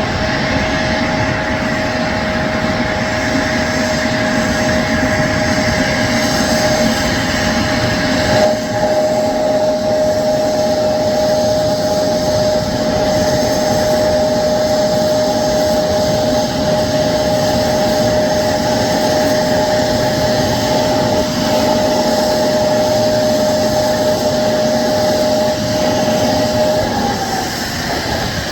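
Embraer 175 regional jet's GE CF34 turbofan engines running at idle: a steady loud roar with a high, steady whine that drops away near the end.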